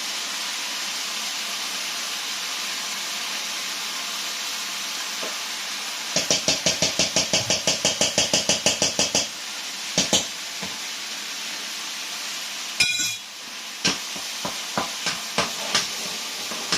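Food sizzling steadily in a hot wok. About six seconds in comes a quick, even run of ringing metal strikes, about six a second for three seconds, then scattered clinks of utensils against metal.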